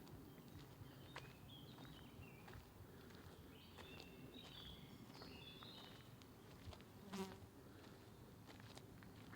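Quiet forest ambience: faint songbird phrases of high, stepped whistled notes in the first half, then a flying insect buzzing briefly past close to the microphone about seven seconds in.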